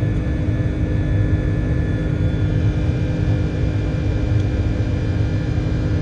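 Cabin noise of an Airbus A330-203 airliner in flight: a steady drone and low rumble from its General Electric CF6-80E1 turbofan engines and the airflow, heard from inside the cabin, with a few steady hums over it and no change in level.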